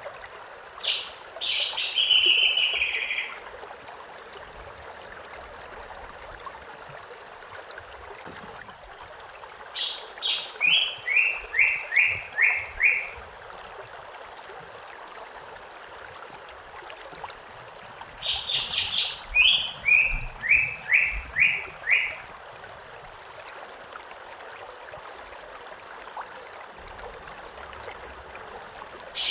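A songbird sings the same short song three times, about eight seconds apart: a few high notes dropping into a quick run of five or six repeated notes. Under it runs the steady rush of river water.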